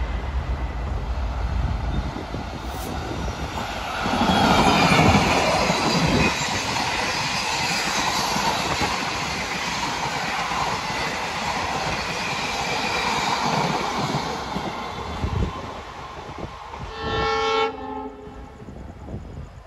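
Express train of passenger coaches running past at speed, a steady rushing and clattering of wheels on the rails that rises sharply about four seconds in and fades a few seconds before the end. Near the end, one short blast of a train horn.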